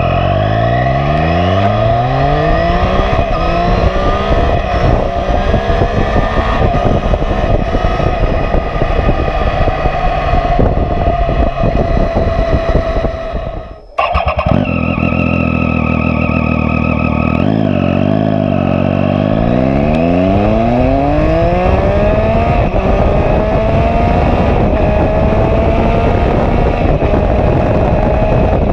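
Triumph Street Triple R 675's three-cylinder engine through a Coffman exhaust with the dB killer removed, very loud. Its pitch climbs slowly under acceleration, cuts out briefly a little before halfway, then climbs again.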